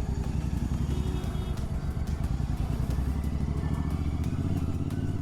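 Royal Enfield Continental GT 650's parallel-twin engine running steadily under way through a Red Rooster Performance aftermarket exhaust.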